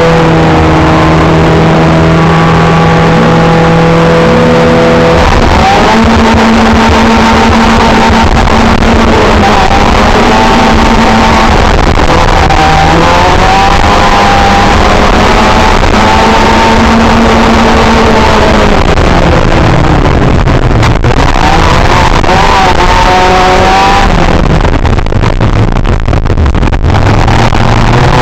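Autocross race car engine heard from inside the cabin, running hard and loud, its pitch holding steady for stretches and then falling and climbing again as the revs change.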